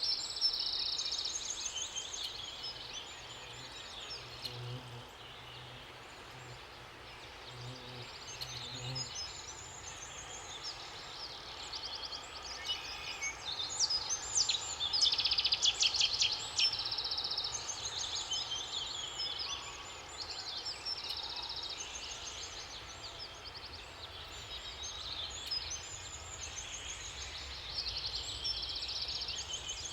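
Several songbirds singing at once, overlapping chirps and rapid trills, with a faint low hum for a few seconds near the start.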